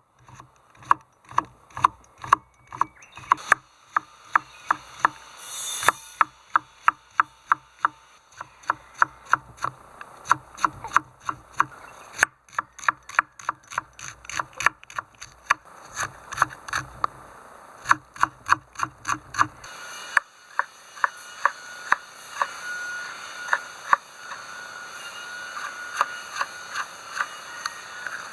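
Repeated sharp strokes of a tool working wood, about two to three a second, in runs broken by short pauses, growing sparser near the end.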